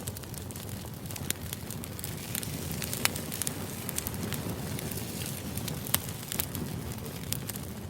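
Steady crackling noise: many sharp, irregular ticks over a low rumble and hiss.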